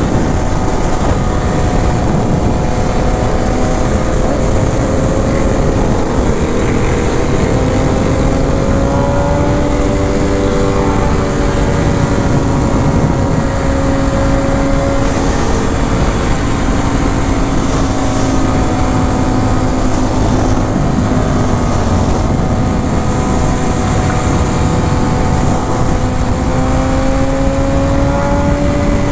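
Motorcycle engine running at fairly steady revs, its pitch drifting slowly up and down, over a constant rush of wind and road noise.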